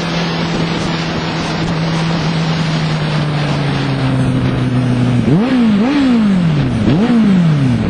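A motorcycle engine running steadily over heavy wind noise, its note sinking slowly. About five seconds in it revs three times in quick succession, each rev rising sharply and falling away.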